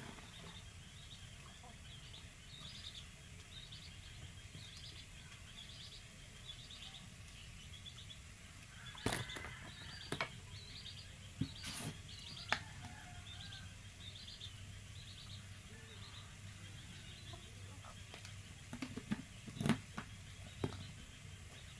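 A bird chirping over and over, short high chirps about every two-thirds of a second. A few sharp clicks and knocks, from a small plastic container and cooking things being handled, come in the middle and again near the end.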